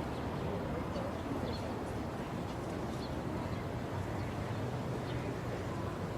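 Steady outdoor background hum with a few faint, short high bird chirps about every second or so.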